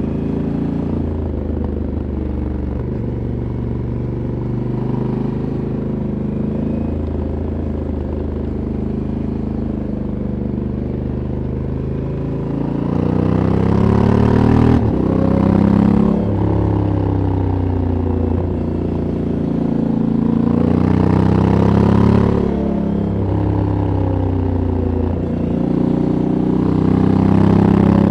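Stock exhaust of a 2022 Honda CRF1100L Africa Twin Adventure Sports, a 1084 cc parallel twin, under way. It runs at fairly steady revs for the first half, then the revs climb and fall several times with sharp drops in pitch, getting louder.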